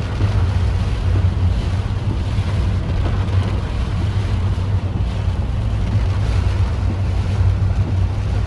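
Typhoon wind and heavy rain making a steady, loud rush, with wind buffeting the microphone into a deep rumble.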